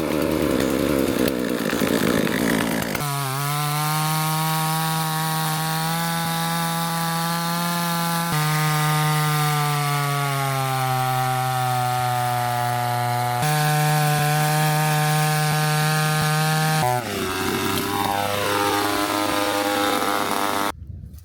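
Chainsaw cutting wood for about three seconds, then running at high, steady revs with a few sudden changes in pitch. Near the end the revs fall away, and the sound cuts off suddenly.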